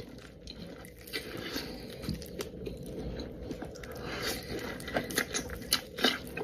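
Close-miked biting into and chewing a spring roll: a run of sharp crackling clicks from the mouth, coming thicker and louder after about four seconds.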